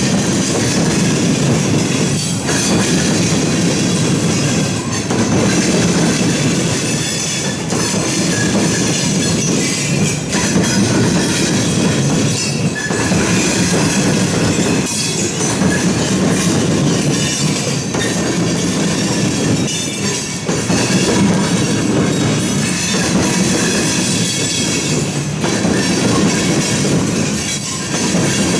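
A train rolling past close by: a steady, loud rumble of cars and wheels on the rails, with clicks recurring every second or two.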